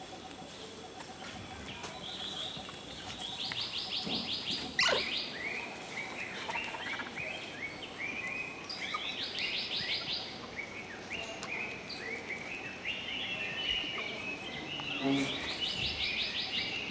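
Bird song repeating three times, each phrase a fast high trill followed by a run of short falling chirps. There is a single sharp click about five seconds in.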